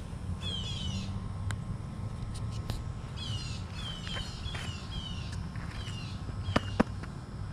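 A bird calling over and over in short, high notes that slide downward, several in quick runs. Near the end come two sharp clicks close together, over a steady low rumble.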